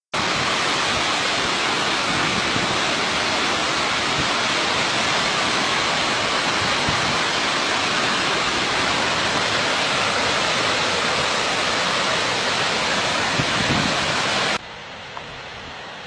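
Skógafoss waterfall's falling water: a loud, steady, dense rush. About a second and a half before the end it cuts off suddenly to a much quieter hiss.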